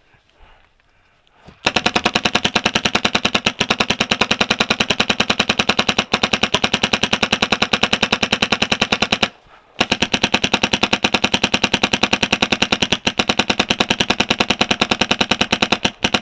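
Paintball marker firing in rapid, evenly spaced shots, two long strings of about seven seconds each with a brief break about nine seconds in.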